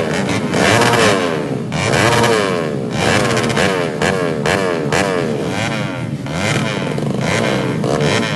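Modified underbone motorcycle engines revving hard, the pitch rising and dropping back again and again, about once a second.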